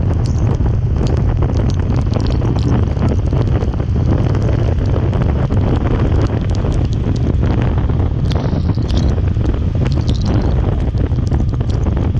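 Heavy wind buffeting the microphone, a steady loud rumble, with scattered short ticks.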